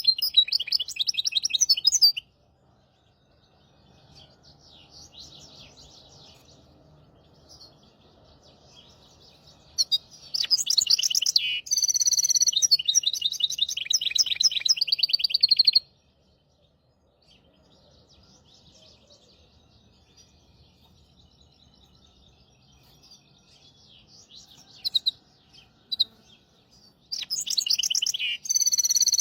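Goldfinch × canary hybrid (mule) singing in rapid trilling phrases: a short burst at the start, a longer phrase from about ten to sixteen seconds in, and another near the end, with faint chirps in the quieter gaps.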